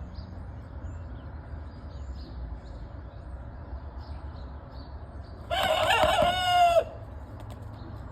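A rooster crowing once, a single call of about a second and a half past the middle, over a steady low background hum and faint high chirps.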